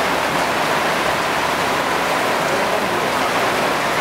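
Heavy downpour: a steady, dense hiss of rain pelting a street.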